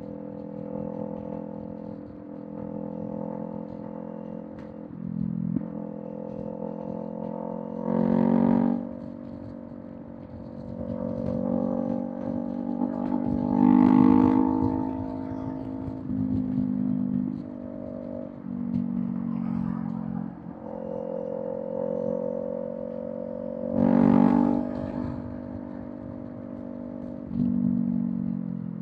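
Kawasaki Z400 parallel-twin engine through an aftermarket Villain M1 exhaust, running at cruising speed with its pitch and loudness shifting with the throttle. Three brief louder surges break in, and the pitch falls away at the end as the bike slows.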